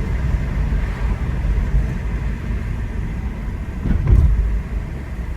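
A car being driven: steady low engine and road rumble, with a brief louder swell about four seconds in.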